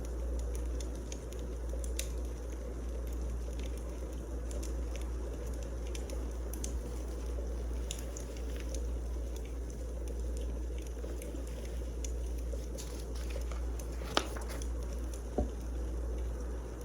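Wood fire crackling: scattered small snaps and pops over a steady low rumble, with two sharper pops near the end.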